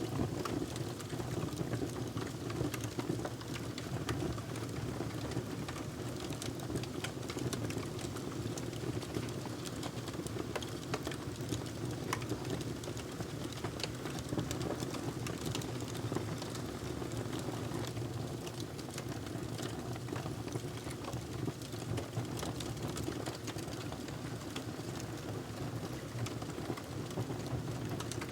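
Wood fire crackling in a fireplace: a steady low rush of flame with many small irregular pops and snaps.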